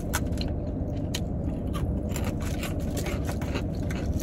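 A person chewing food close to the microphone, with many small mouth clicks and smacks, over a steady low hum inside a car cabin.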